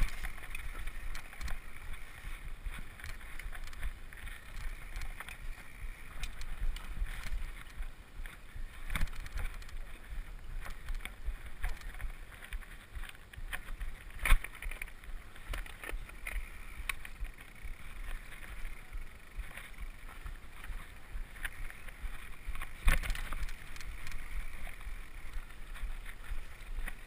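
Mountain bike running down a rough, rocky trail: a steady rumble of tyres and wind with constant rattling and clatter from the bike over stones and roots. Sharp knocks stand out about 14 and 23 seconds in.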